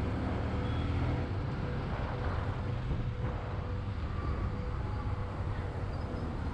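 Motorcycle running steadily on the road, with a low engine rumble and road and wind noise.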